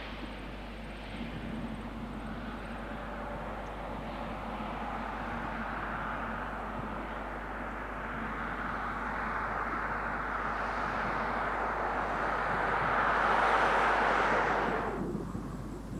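Lockheed C-130 Hercules turboprop engines at takeoff power as the aircraft departs: a steady engine noise that swells to its loudest about thirteen seconds in, then falls off sharply near the end.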